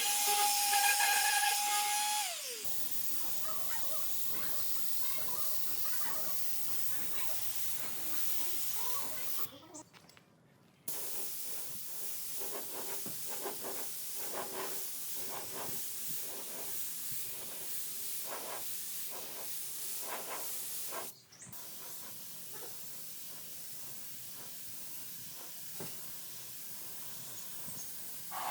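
A power tool's whine winds down and stops about two seconds in. A long, even spraying hiss follows. It breaks off for about a second near ten seconds and carries on more quietly after about twenty seconds.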